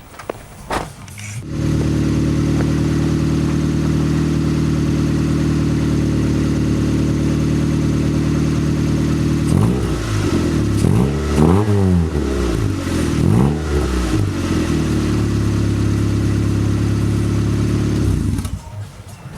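Honda Civic EG's four-cylinder engine running through an aftermarket exhaust: it comes on about a second and a half in and holds a steady idle. In the middle it is revved several times, the pitch rising and falling, then it settles back to idle, and the sound drops away near the end.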